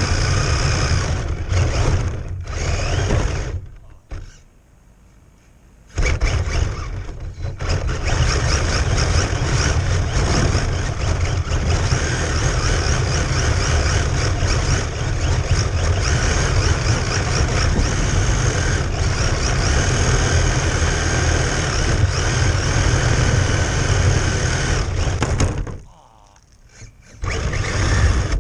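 Radio-controlled car running on ice: a thin high motor whine that rises and falls with the throttle, over a loud low rumble. Both drop out briefly twice.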